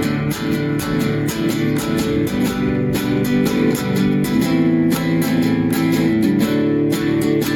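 Guitar strummed in a steady rhythm, an instrumental passage of a folk song with no singing.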